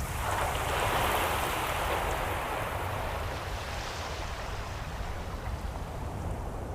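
Ocean surf: a wave breaks near the start, its hiss strongest about a second in, then slowly fades as the water washes out, over a low rumble of the sea.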